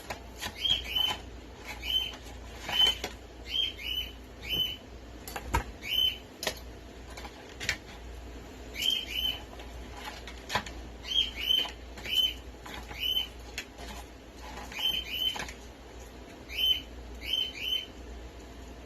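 Small birds chirping over and over in quick pairs of short high notes. Now and then a sharp crack comes through, from a blue crab's shell being cut and broken apart with a knife.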